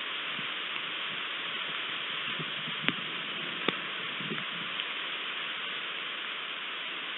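Rain falling steadily, heard as an even hiss through a nest webcam's microphone, with two sharp ticks about three and four seconds in.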